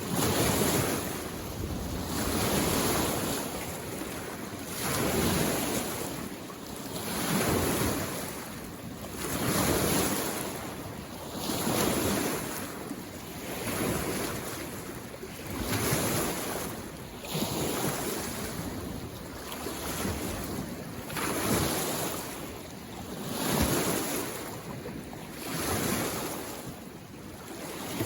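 Small lake waves washing in against the shore, one surge about every two seconds in a steady, even rhythm of rushing water.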